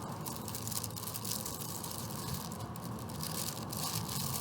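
Steady traffic noise from a busy street, with short crackles close to the microphone.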